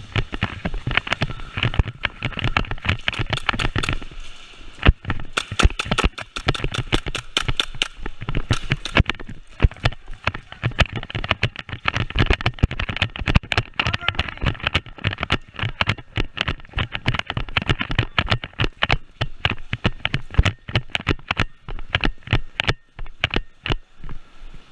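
Airsoft guns firing in rapid full-auto bursts and single shots, a dense, irregular string of sharp cracks, with a run of evenly spaced shots about five seconds in.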